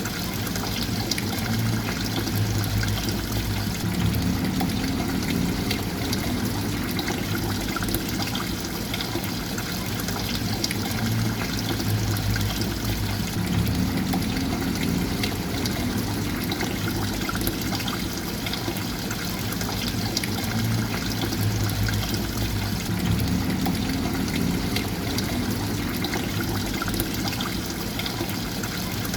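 Steady trickling, splashing water, with a low rumble that swells about every nine seconds.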